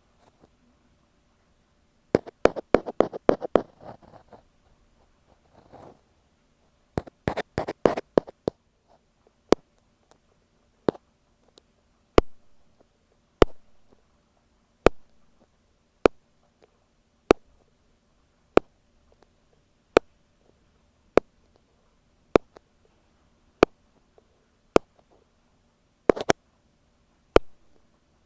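Ear pick tapping on an earphone microphone: two short runs of rapid taps, then slow single sharp taps evenly spaced a little over a second apart.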